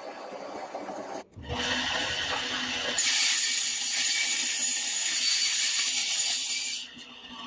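A small power tool running with a high-pitched whir, heard in abrupt cut segments, loudest from about three seconds in until shortly before the end.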